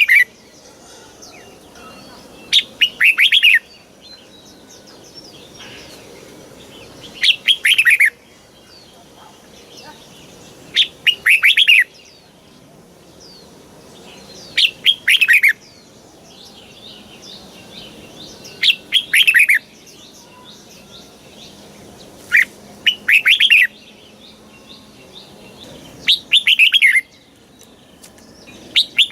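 Red-whiskered bulbul singing a short, loud, rapid song phrase of about a second, repeated roughly every four seconds, with fainter chirps between the phrases.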